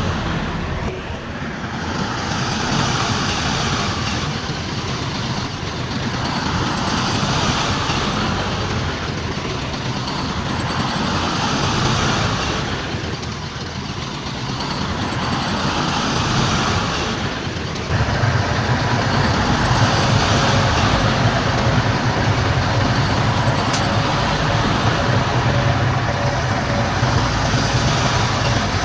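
Diesel engines of heavy earthmoving machinery working, the noise swelling and easing every few seconds, then turning to a steadier, louder engine drone about two-thirds of the way through.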